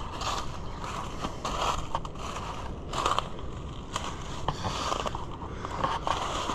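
Footsteps crunching through wet leaf litter and brush, roughly one step a second, over a low rumble of wind on the microphone.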